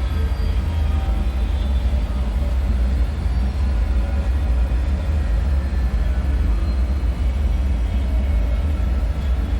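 Steady, deep rumbling drone of a dark underground-bunker ambience, with faint thin tones drifting high above it.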